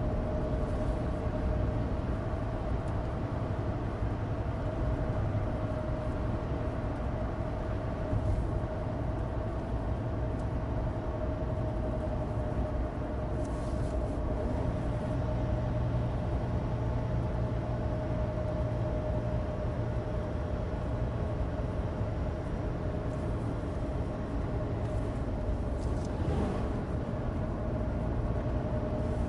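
Cabin sound of a 2016 Suzuki Alto Turbo RS driving at a steady pace: its 660 cc turbocharged three-cylinder engine running with a constant hum, over the low rumble of studless winter tyres on dry road. A brief hissing swish comes twice, around halfway and near the end.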